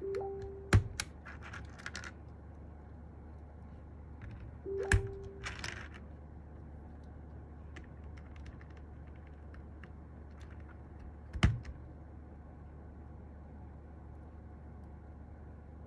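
Sparse small clicks and three sharp knocks, about a second in, five seconds in and near eleven and a half seconds, from mechanical keyboard parts being handled and set down, over a steady low hum.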